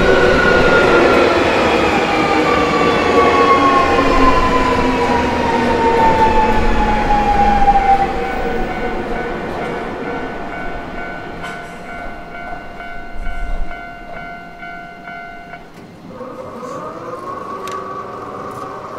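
Keio Inokashira Line electric train passing over the level crossing, its motor whine falling steadily in pitch and level as it goes by. Behind it the level crossing alarm keeps ringing, then cuts off suddenly about three seconds before the end once the train has cleared.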